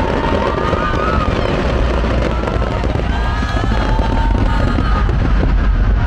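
Fireworks display going off, a dense run of rapid crackling pops and bangs.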